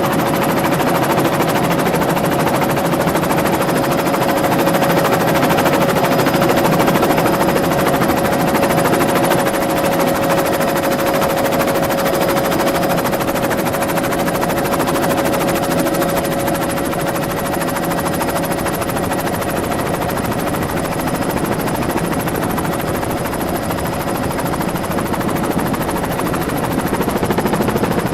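Helicopter in flight, heard from inside the cabin: a steady rotor and engine drone, with a steady whine in it that fades away a little past halfway.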